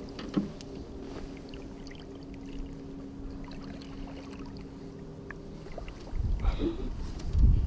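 A boat motor runs with a steady low hum that fades out about six seconds in. Near the end, wind buffets the microphone with low rumbling gusts.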